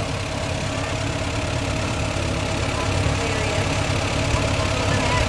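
Orange tractor's engine running steadily at a low, even speed, growing slightly louder toward the end.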